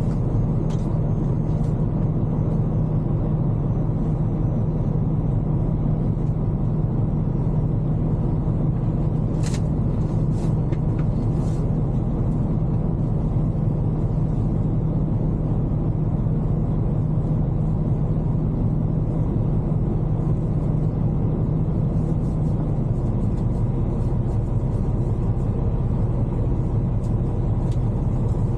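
Semi truck's diesel engine idling steadily, with a few light clicks about ten seconds in. The engine note drops slightly about 23 seconds in.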